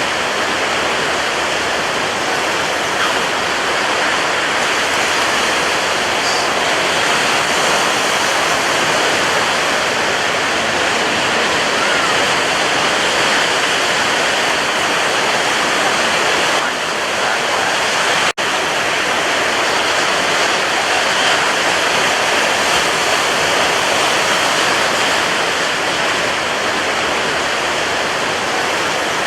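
Ocean waves breaking, a steady unbroken wash of surf, cut by a momentary dropout about eighteen seconds in.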